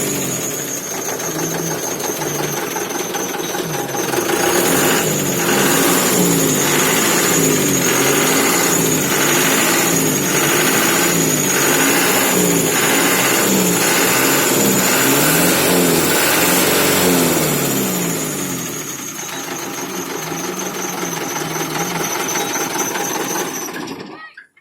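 Truck engine running, its speed rising and falling roughly once a second through the middle of the clip as it is revved over and over, then settling steadier. A steady high whine sits over it, and the sound cuts off at the very end.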